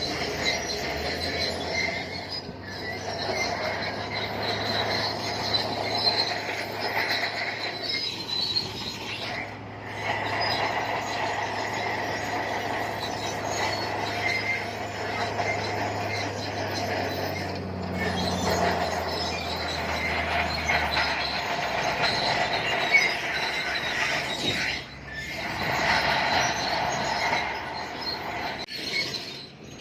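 Bulldozer at work: its steel crawler tracks squeal steadily as it moves, with a low diesel engine drone underneath that drops away about two-thirds of the way through.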